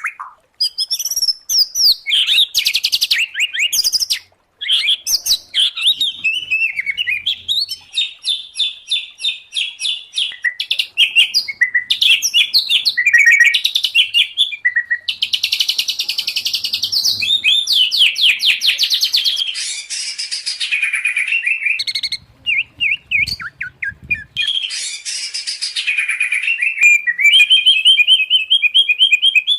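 A songbird singing a long, varied song of whistled phrases, rising and falling glides and fast rapid-fire trills, with a couple of short breaks.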